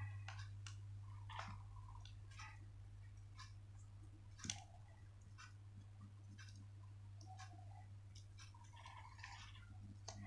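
Faint rustles and crinkles of a sheet of paper being folded and creased by hand, with one sharper tap about four and a half seconds in, over a steady low hum.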